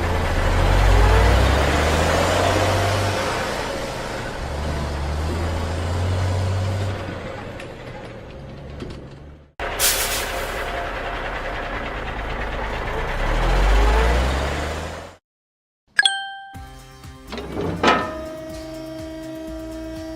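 Cartoon truck sound effects: a vehicle engine rumbling and driving in two long stretches with a cut between them. After a brief silence comes a sharp ding, and then steady background music starts.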